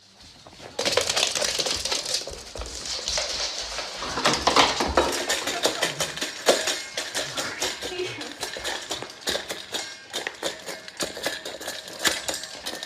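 Rapid clattering and clinking of small hard objects, many quick clicks in a row.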